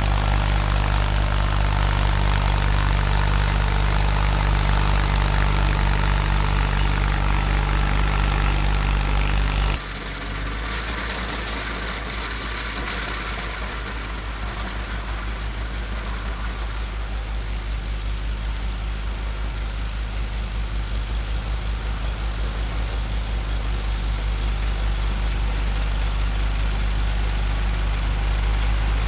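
Tractor engine running at a steady speed with a strong hiss. About ten seconds in, the sound switches abruptly to a quieter, duller engine note that slowly grows louder.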